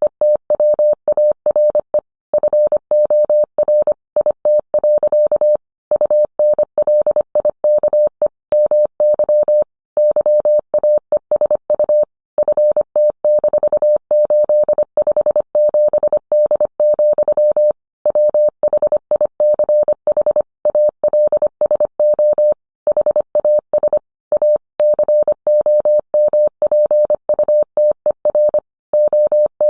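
Morse code sent as a steady tone of about 600 Hz, keyed on and off rapidly in dots and dashes, with short pauses between words.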